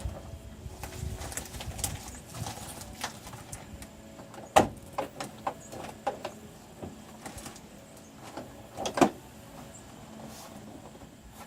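Clicks and knocks of a wheelchair and a pickup truck's door being handled, with two sharp knocks about four seconds apart standing out. Doves coo faintly in the background.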